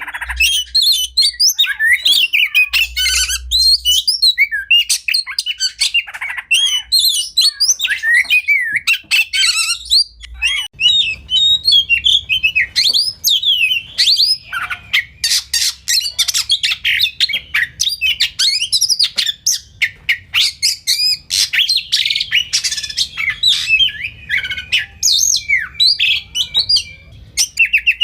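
Oriental magpie-robin (kacer) singing a long, unbroken, rapid song of varied whistles, trills and harsh chattering notes. A faint low hum joins underneath about a third of the way in.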